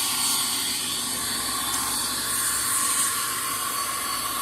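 Aerosol can of foaming engine degreaser spraying in a steady hiss, swelling brighter twice.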